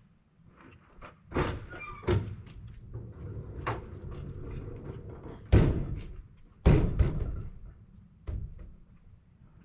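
A run of heavy thunks and knocks, about five, with a low rumble between them; the two loudest come close together a little past halfway.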